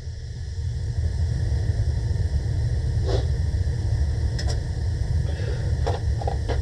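Gas-fired heating unit running with a low, steady rumble, back in operation on its newly replaced gas valve. The rumble builds over the first second, and a few brief clicks or knocks come about halfway through and near the end.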